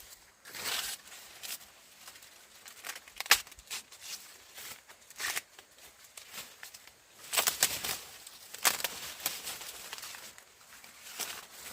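Irregular rustling, crinkling and tearing of something dry being handled, with a sharp snap about three seconds in and a denser spell of rustles a little past the middle.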